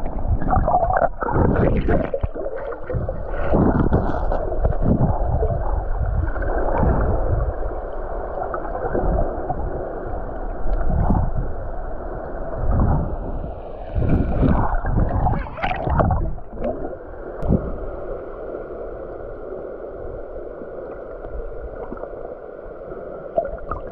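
Muffled water sloshing and gurgling, heard through a waterproofed camera in or under the water, with irregular surges from swimming movement.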